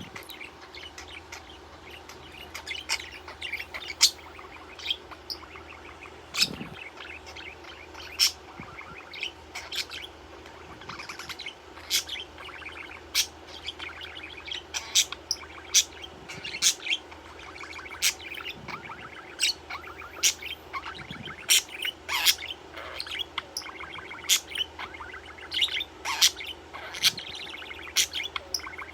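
Pet budgerigar chirping and chattering: short, sharp chirps every second or so over a continuous soft warble.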